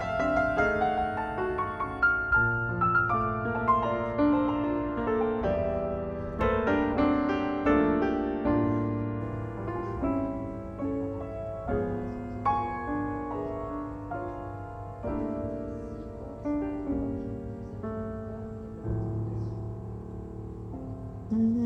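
Background piano music, a gentle melody of struck notes.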